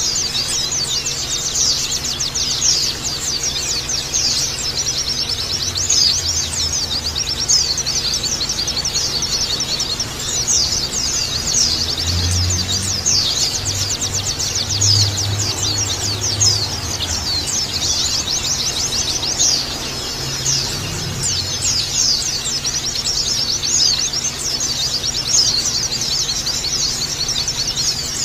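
A group of white-eyes (pleci, Zosterops) chirping and twittering together in a dense, continuous chorus of quick, high-pitched calls, the rough chattering 'ngeriwik' used to stimulate caged white-eyes into singing.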